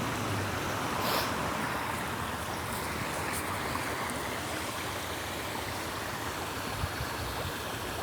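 Small artificial waterfall splashing steadily into a pond.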